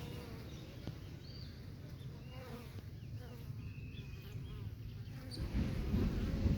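Buzzing hum of wings in flight, with a few faint, short high chirps over a low rumble. The rumble grows louder near the end.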